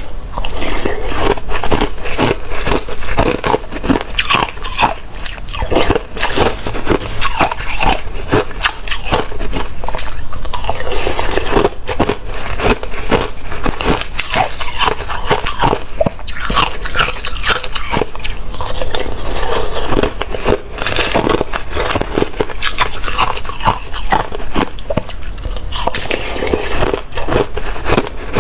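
Close-up biting and chewing of watery, slushy ice: continuous wet crunching and crackling as the ice is crushed between the teeth.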